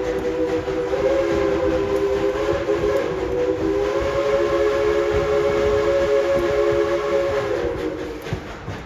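Steam locomotive's chime whistle blowing one long chord of several notes, which lifts slightly in pitch once or twice and dies away about eight seconds in, over the rumble of the moving train.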